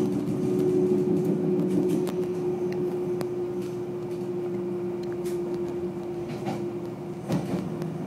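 Ride noise inside a moving electric commuter train: a steady hum with a constant tone and a few sharp clicks from the running gear, growing gradually quieter as the train slows.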